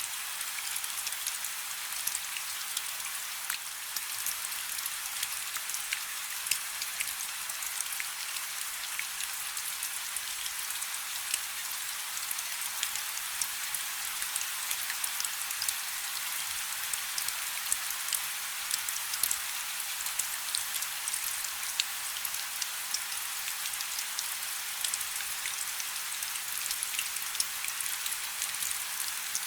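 Light rain falling steadily: a soft high hiss dotted with many small, sharp drop ticks.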